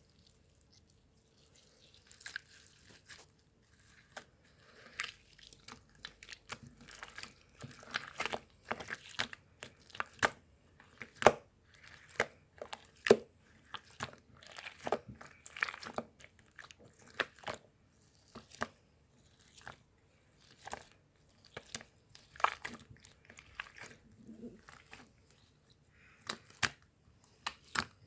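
Close-up crunching and chewing of crisp food, with irregular sharp crunches, sometimes several a second, starting about two seconds in.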